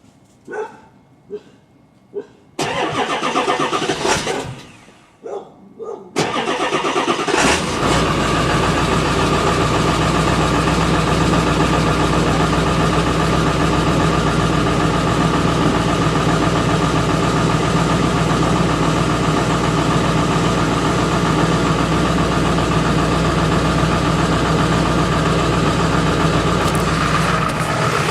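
2002 Ford F-250's 7.3-litre Power Stroke V8 turbo-diesel started cold. A burst of cranking begins about two and a half seconds in and stops after two seconds. A second crank about six seconds in catches, and the engine settles into a steady idle.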